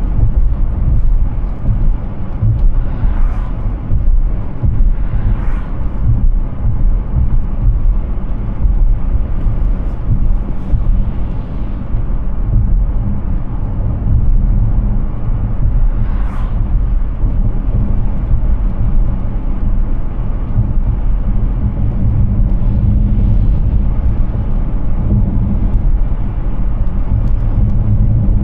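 Road noise from an electric car driving at speed: a steady low rumble of tyres on pavement with wind, with no engine note. A few short hissing swells rise over it, the sharpest around the middle.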